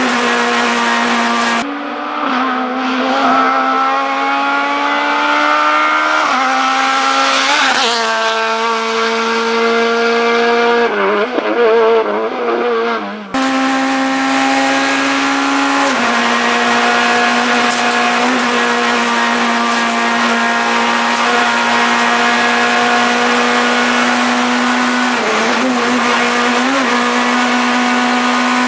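Proton Super 2000 rally car's naturally aspirated 2-litre four-cylinder engine running hard, its pitch rising under acceleration and dropping back on gear changes and lifts, with some tyre squeal. The sound changes abruptly about two seconds in and again about thirteen seconds in.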